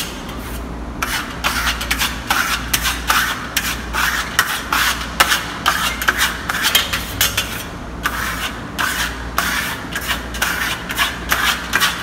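Marmorato trowel scraping burnt-cement paste across a plastered wall in quick, repeated short strokes, working in the mottled finish.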